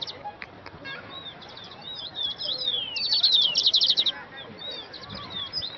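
Birds chirping and calling, with short falling whistled notes and, about three seconds in, a fast trill of rapid chirps, around ten a second.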